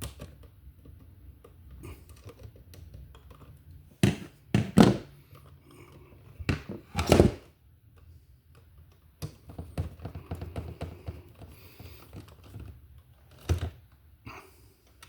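Hand tools and a wall receptacle being handled during wiring: a few sharp clicks and knocks about four to five seconds in, two more around seven seconds and one near the end, over a low steady hum.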